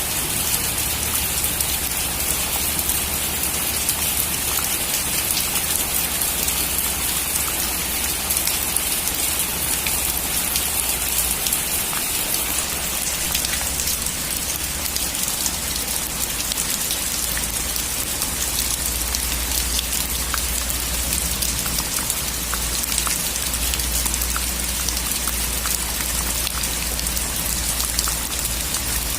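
Steady heavy rain on a metal roof, an even hiss with many individual drops ticking on the sheet metal.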